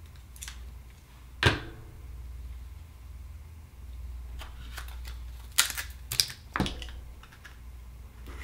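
Hard clicks and taps of oyster shells and tools being handled: one loud click about a second and a half in, then a cluster of clicks a little past halfway, over a steady low hum.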